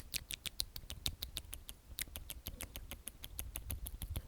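Close-miked ASMR mouth sounds: a rapid run of small wet lip and tongue clicks, about eight a second, with a short pause about two seconds in.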